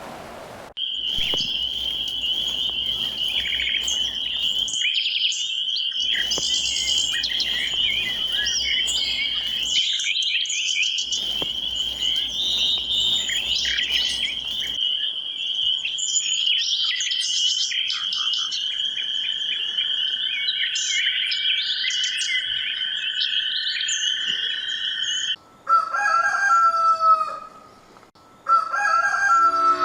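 Many short bird chirps over a steady high-pitched drone. Near the end the drone stops, and two longer drawn-out bird calls follow.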